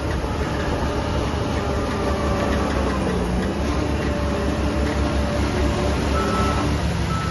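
Heavy diesel construction machinery running steadily with a dense, low engine drone. Near the end, a faint high beep starts repeating on and off.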